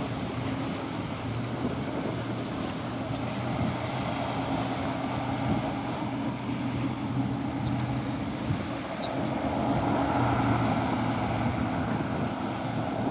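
A motorboat's engine droning steadily over wind noise on the microphone and waves washing, growing a little louder about ten seconds in.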